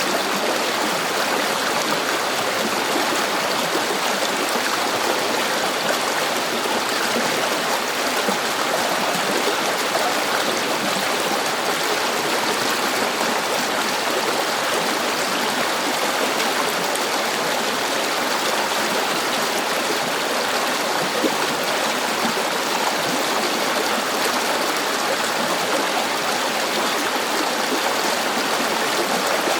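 A river flowing steadily, its water rushing and burbling without pause.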